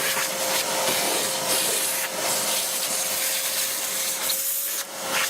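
ALEKO VWD411 portable wet/dry vacuum running, a steady rushing suction with a constant motor whine, as the nozzle rubs over a surface. The noise dips briefly about four and a half seconds in.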